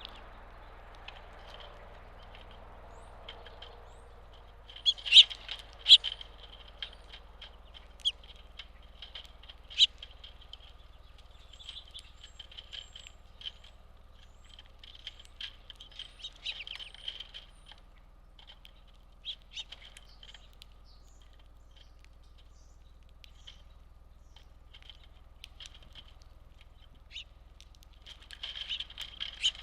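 Small birds chirping: short, high chirps scattered throughout, with louder chirps about five and ten seconds in and a busier run near the end, over a faint steady low hum.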